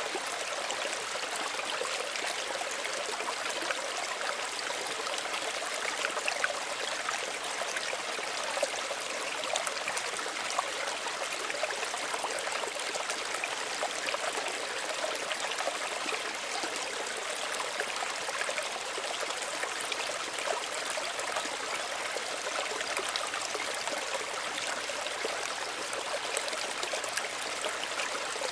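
Small stream of running water flowing steadily, with a gentle babble and trickle of small splashes over it.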